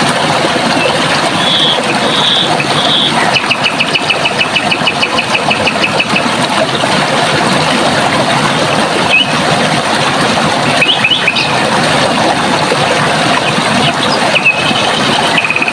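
Running water flowing steadily, with small birds calling over it: three short notes, then a rapid trill of about nine notes a second lasting about three seconds, and later a few scattered chirps.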